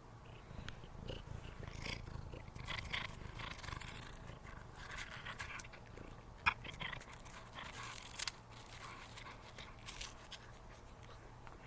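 A cat purring steadily while licking and crunching a freeze-dried chicken treat, with irregular crackles and clicks from the chewing. There are two sharper clicks just past the middle.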